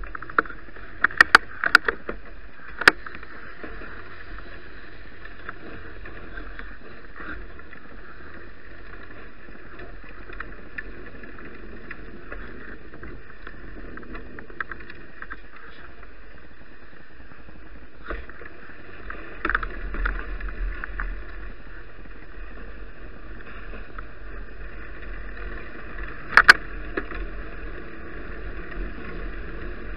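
Bicycle ride on snowy roads: a steady hiss of tyres and wind, broken by sharp clicks and knocks as the bike jolts, several in the first three seconds, a rougher rumble about twenty seconds in, and the loudest knock near the end.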